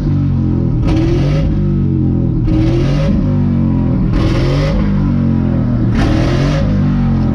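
Cammed pickup truck engine running and being revved in repeated short blips, the pitch climbing and falling about every one and a half seconds.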